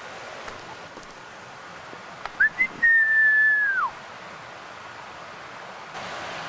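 A person whistling: two short notes, then one long held note that drops away at its end, about midway through.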